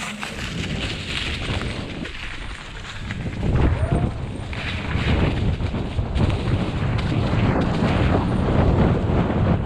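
Wind buffeting the microphone, a heavy, uneven low rumble that grows stronger about three and a half seconds in.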